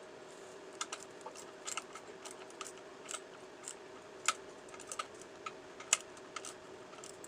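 Irregular light clicks and taps of hand work on small metal parts, about twenty in all, the sharpest a little past four seconds and near six seconds, over a steady low hum.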